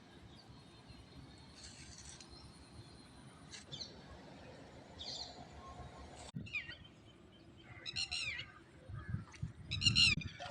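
Small birds chirping: two quick runs of short, repeated high notes in the second half, over faint outdoor background noise, with a dull low rumble near the end.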